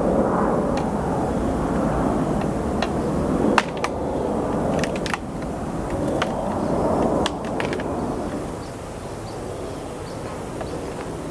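Wooden beehive parts and tools being handled: scattered sharp clicks and knocks over a loud, uneven low rumble.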